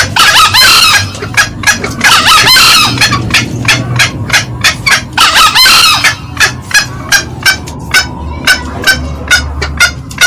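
Green junglefowl calls played loud as a lure: three longer calls, near the start, about two seconds in and about five seconds in, over a steady run of short clucking notes, two or three a second.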